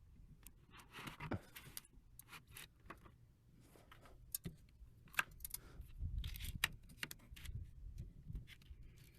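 Scattered light clicks, scrapes and rubbing as a masking board and tools are handled and moved about close to the microphone.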